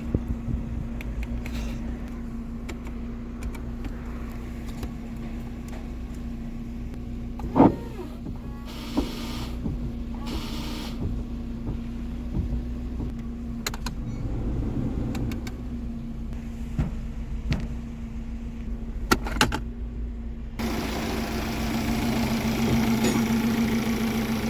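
Four-cylinder car engine idling steadily with an even hum. There is a sharp knock about eight seconds in and a couple of clicks a little before twenty seconds in, and after that the running grows slightly louder and fuller.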